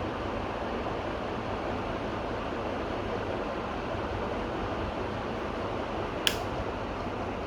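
Clone of a TMT ceiling fan running steadily with steel blades, giving a constant whoosh of moving air and motor hum. A single sharp click comes about six seconds in.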